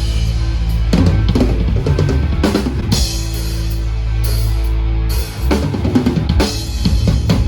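Live band at sound check: a drum kit with kick and snare hits over sustained bass notes, played loudly.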